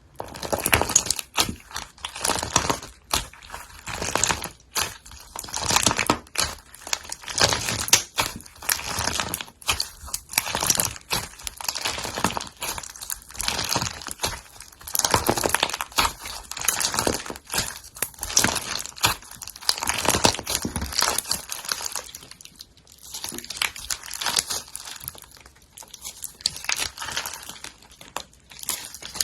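Slime being squeezed and kneaded by hand: a dense crackling and popping that starts suddenly and swells and fades in repeated waves.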